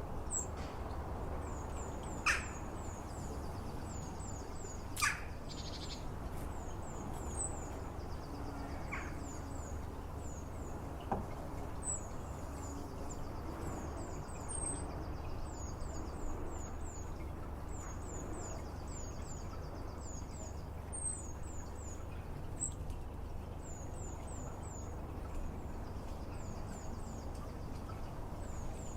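Garden songbirds singing: a steady run of very high, thin chirps repeating in a regular pattern, with a few louder, sharper calls in the first several seconds, over a steady low background hum.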